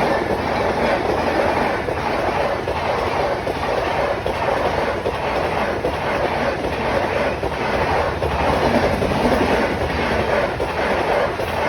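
Indian Railways Punjab Mail express train running at speed: a steady, loud rumble and rush of the carriages with a regular clickety-clack of the wheels over rail joints.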